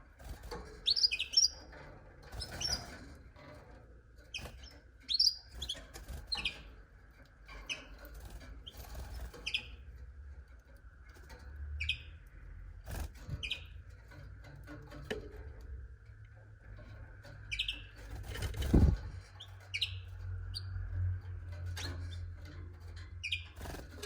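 Canaries giving short, separate chirping call notes every second or so rather than a full song, with a few sharp knocks, the loudest about 19 seconds in, over a steady low hum.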